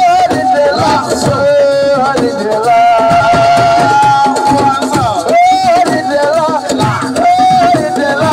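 Siko (assiko) band music: a voice singing a wavering, ornamented melody over hand drums and other percussion.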